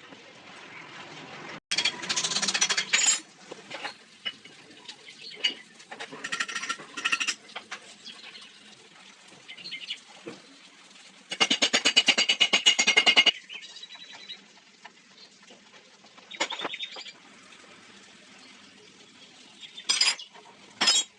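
Metal hand tools and engine parts clinking and clicking as a Honda CD 70 cylinder head is worked on. There is a run of rapid, even clicking for about two seconds near the middle, with shorter clusters of clicks near the start and the end.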